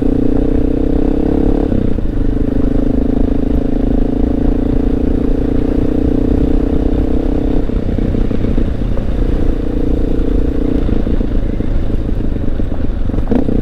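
Honda XR650L's single-cylinder four-stroke engine running while riding. The note rises slightly near two seconds in, holds steady, then eases off and turns rougher around eight seconds in and again near eleven.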